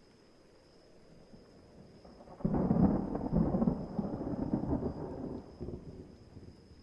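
A clap of thunder breaking in suddenly about two and a half seconds in, rumbling for about three seconds and then fading away, over a faint steady background.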